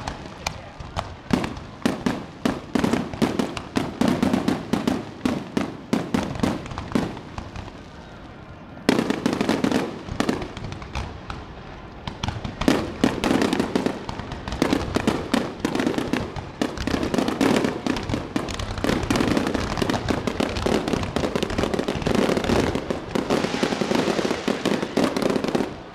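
Aerial fireworks bursting in a rapid, dense barrage of sharp bangs in quick succession. There is a short lull about eight seconds in, then a thicker barrage that cuts off suddenly at the end.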